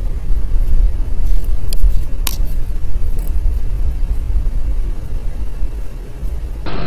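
Steady low rumble of a moving car, its road and engine noise, with a single sharp click about two seconds in.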